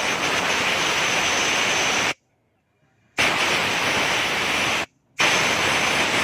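Compressed-air blow gun blasting air over wet spark plug wires to dry them, in three loud hissing blasts of one to two seconds each that start and stop sharply.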